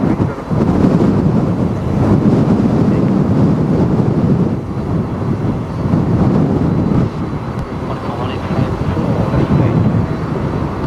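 Strong, gusty typhoon wind buffeting the microphone: a loud rumbling noise that swells and dips every second or two.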